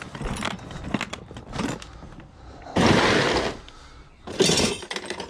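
Old metal scrap clattering and scraping as it is rummaged through by hand. There are scattered knocks, a loud rattle about three seconds in and a shorter one a second or so later.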